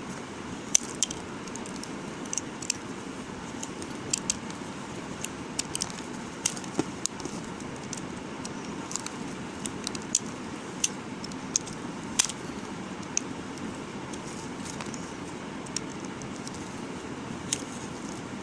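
Knife cutting into bar soap: irregular sharp clicks and crackles, a few to several a second and unevenly spaced, over a steady background hiss.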